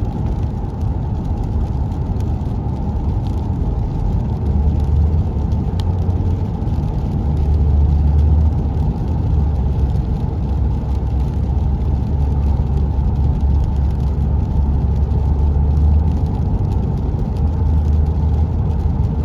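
A car driving, a steady low rumble of road and engine noise.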